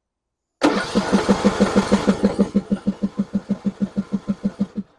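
John Deere E100 riding mower's electric starter cranking the engine at about six or seven strokes a second for some four seconds, then stopping. The engine turns over but does not catch: a no-start.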